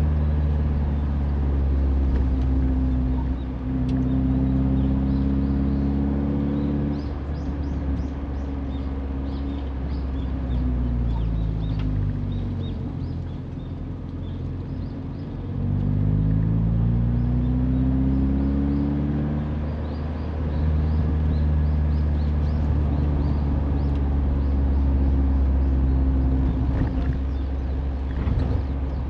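Mazda Roadster's four-cylinder engine and road rumble heard from onboard while driving: the engine note falls as the car slows about seven seconds in, stays low for a few seconds, then climbs again as it accelerates around the middle and holds steady after.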